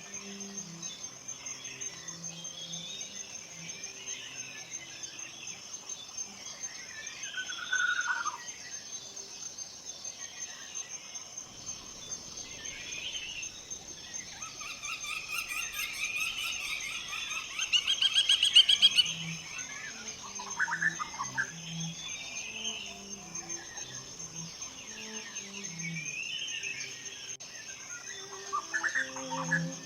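Forest birdsong: various birds calling on and off, with a busier flurry of chirps a little past halfway. Under it runs a steady high insect trill, and in places a slow low melody of soft sustained notes.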